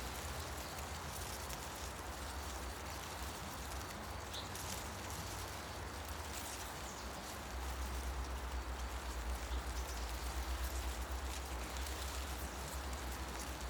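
Wind through forest foliage: a steady rustle of leaves with scattered faint ticks, over a low wind rumble that strengthens about halfway through.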